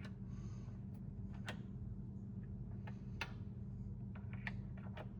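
Scattered light clicks and taps of Delta faucet repair parts being handled and fitted together, over a steady low hum.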